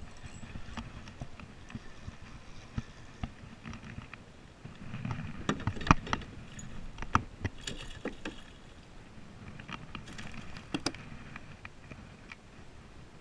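Sounds of a kayak on the water: a low rumble of water movement with a few sharp knocks and clicks against the hull, the loudest about six and seven seconds in.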